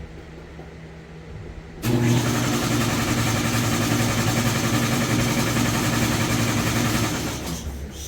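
An automatic shop alarm that reminds the user to shut the air compressor off comes on suddenly about two seconds in. It is a loud, steady machine-like hum with a strong hiss on top. It stops about five seconds later.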